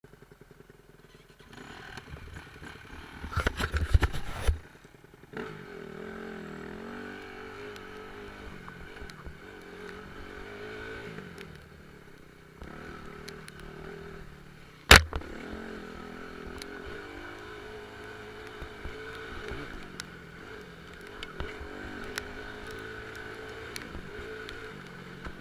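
Motorcycle engine running, its pitch rising and falling unevenly as the throttle is worked. A loud rough noise comes about four seconds in, and a single sharp knock about fifteen seconds in.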